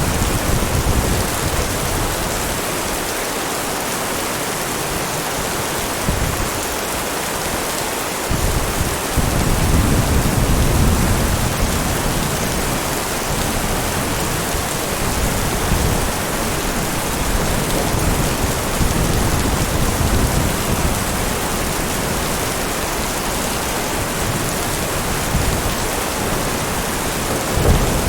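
Steady heavy rain, with low rolling thunder rumbling under it; the loudest roll comes about nine seconds in and lasts a few seconds.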